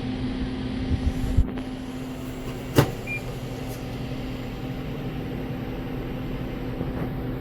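Steady mechanical hum, with a few soft knocks about a second in and one sharp click near three seconds.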